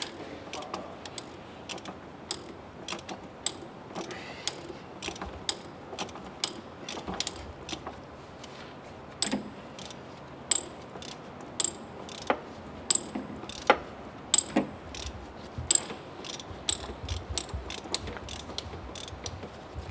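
Ratchet wrench clicking stroke after stroke as a filter is worked loose; the clicks come irregularly at first, then about one loud click a second.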